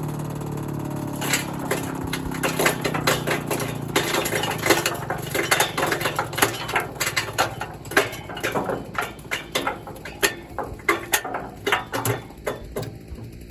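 Garden shredder running, its motor humming under a rapid, irregular series of sharp cracks and knocks as wood is fed through and chipped. The motor hum fades while the knocking goes on, and the knocks thin out near the end.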